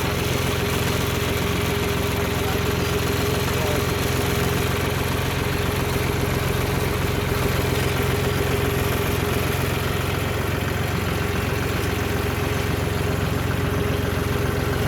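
Vehicle engine running steadily: an even low hum with a steady higher tone above it, with no change in pitch or loudness.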